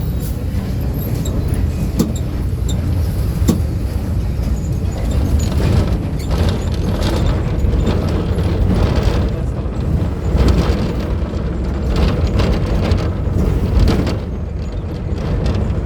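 VW 17-230 OD bus engine running under way, a steady low rumble, with body rattles and a few sharp knocks over the road.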